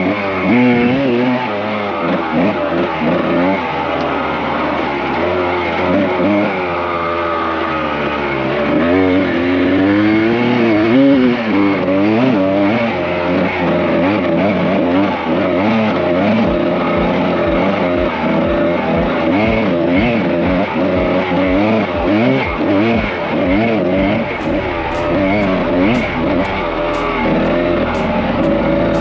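Kawasaki KDX220R two-stroke single-cylinder dirt-bike engine being ridden, revving up and down so its pitch rises and falls over and over.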